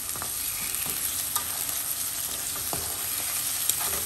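Raw chicken pieces sizzling in hot oil with onions and spices, stirred with a wooden spatula in a coated frying pan. The spatula scrapes and taps the pan with a few sharp clicks.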